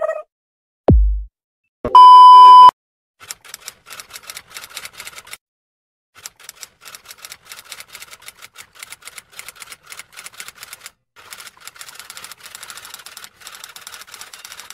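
A short falling tone, then a loud, steady censor-style beep lasting under a second. Then rapid typing clicks follow in three runs of a few seconds each, with short gaps between them.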